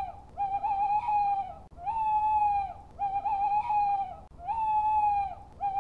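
Owl hooting in a steady series of about six calls, each roughly a second long. The calls alternate between a smooth one that drops off at its end and a wavering one.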